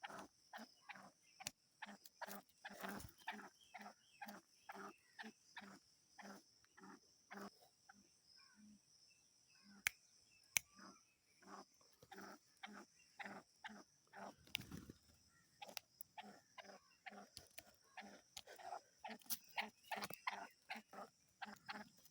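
Black francolin giving a long run of short, harsh notes, two to three a second, in the agitated, angry calling of a roused bird. The notes thin out for a couple of seconds about a third of the way in, then pick up again.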